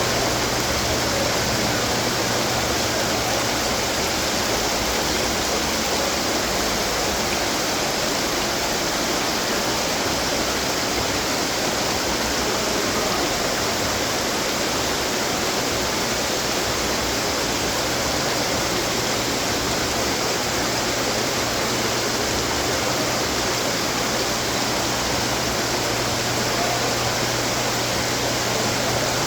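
Garden water fountains running, a steady rush of falling and splashing water with a low steady hum underneath.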